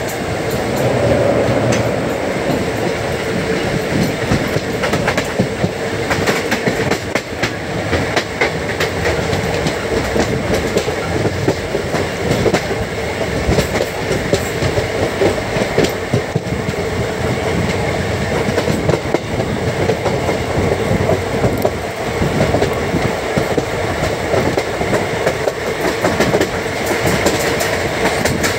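Andaman Express passenger train running, heard from on board: a steady rumble and hiss with wheels clattering over rail joints.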